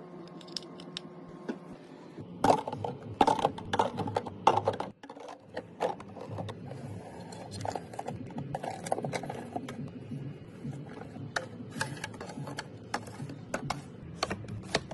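Irregular clicks, knocks and rattling of small objects being handled and set down, loudest and busiest a few seconds in.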